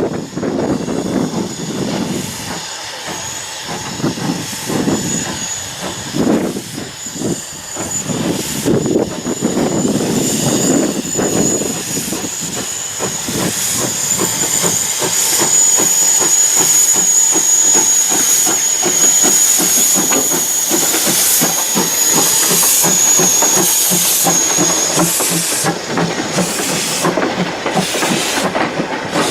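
Steam locomotive working a train past, with chuffing exhaust beats and a steady high hiss of steam. Near the end this gives way to a quicker, regular rattle of the passing train.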